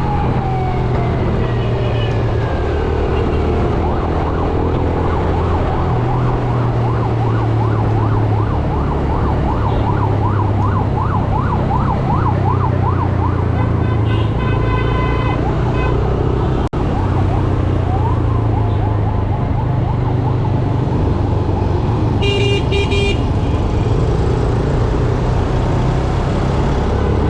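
Yamaha YBR 125G's single-cylinder four-stroke engine running under a rider through heavy city traffic, with wind and road noise. A siren falls in pitch at the start, and a fast warbling siren sounds about a third of the way in. Vehicle horns toot briefly near the middle and again later.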